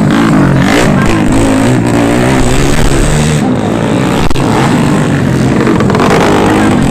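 Motorcycle engines revving loudly, their pitch rising and falling.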